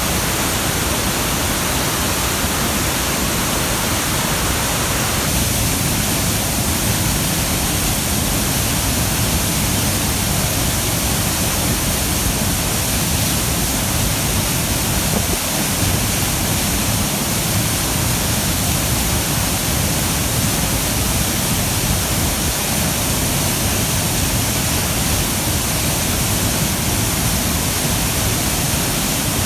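Waterfall in heavy flow after rain: a loud, steady rush of falling water, its tone shifting slightly about five seconds in.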